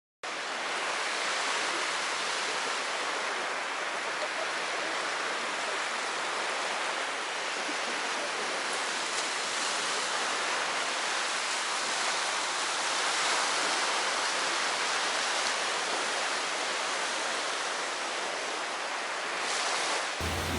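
Steady, even rushing of water, starting abruptly just after the start and breaking off near the end.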